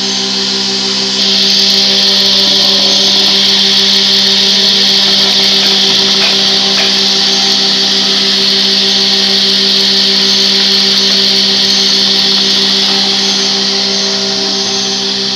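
Electric power tool running steadily with a constant motor hum; a louder high hiss joins about a second in and eases near the end.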